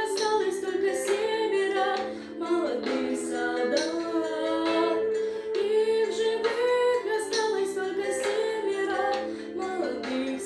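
Children's vocal ensemble singing a song in harmony, with musical backing.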